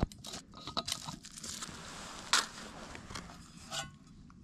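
Someone chewing a toasted bread roll close to the microphone: soft irregular crunches and small clicks, with one louder crunch a little past the middle.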